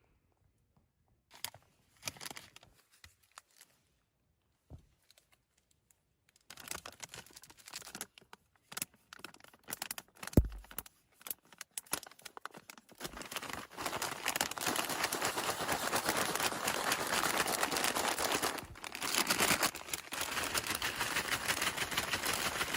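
Plastic snack packaging being handled and crinkled: a few scattered rustles and clicks at first, then continuous crinkling through the second half, with a brief pause.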